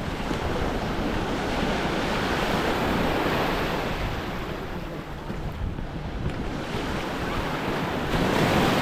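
Waves washing onto a beach, swelling around two to three seconds in and again near the end, with wind buffeting the microphone.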